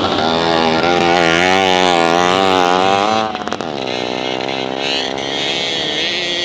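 Vintage motorcycle engine at high revs, its pitch wavering. About three seconds in, the note falls sharply and the engine carries on at a lower pitch, as a bike backs off the throttle or passes by.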